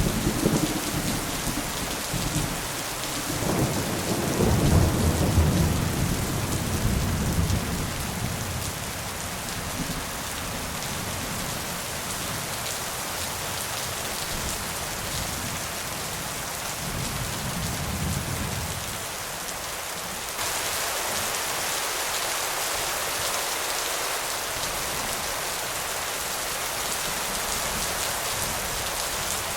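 Steady rain with rolling thunder: a low rumble swells through the first several seconds and is loudest about five seconds in, with a fainter roll near eighteen seconds. About twenty seconds in, the rain's hiss abruptly grows louder and stays there.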